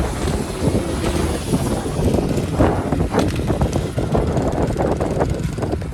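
Water splashing and sloshing in quick irregular strikes, thickest in the second half, over a steady rumble of wind on the microphone.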